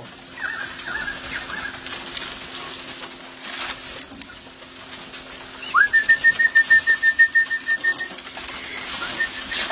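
A bird's alarm call: about six seconds in, a note sweeps up into a rapid run of high pulses held on one pitch for about two seconds, and the same call starts again near the end, with softer bird chirps before it. It is taken as a warning of a wedge-tailed eagle overhead.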